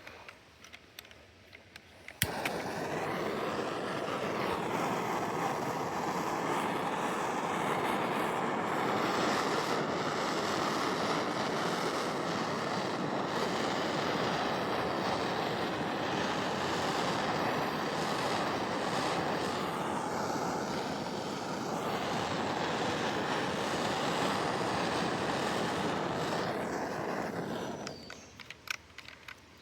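Air hissing steadily into a maple sap vacuum line under suction. It starts suddenly with a click about two seconds in and dies away near the end.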